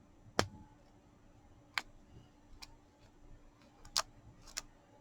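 Five sharp clicks and light taps spread across a few seconds, from small craft tools such as tweezers being handled on a work surface. The loudest click comes about half a second in, and another loud one comes about four seconds in.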